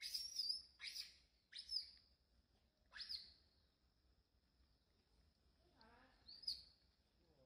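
Birds chirping: short, sharp, high calls, four in the first three seconds and one more near the end, over a thin steady high tone. A fainter, lower call comes once just before the last chirp.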